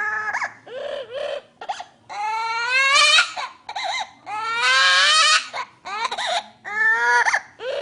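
Pet bird mimicking a baby crying: a run of wailing, baby-like cries, one long cry rising in pitch about two to three seconds in and a loud harsh cry about five seconds in.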